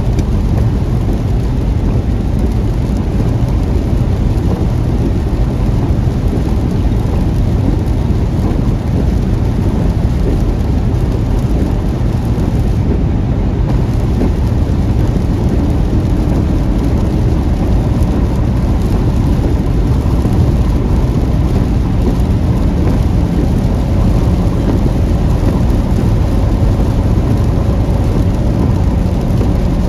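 Heavy rain on a moving car in a thunderstorm, mixed with the car's tyre and engine noise on the wet road: a steady, loud rushing with no separate claps or strikes.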